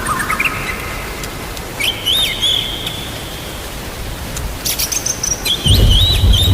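Songbirds singing short whistled phrases over a steady hiss of falling rain, with a low rumble of thunder coming in near the end.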